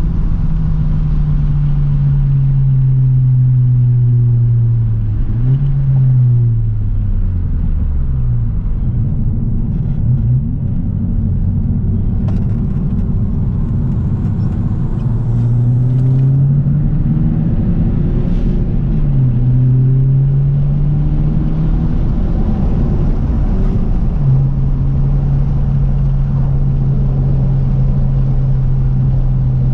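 Exhaust of a 10th-generation Honda Civic's turbocharged four-cylinder, straight-piped behind the stock catted downpipe, running under way. The engine note rises and falls several times with throttle and gear changes, then holds steady for the last few seconds.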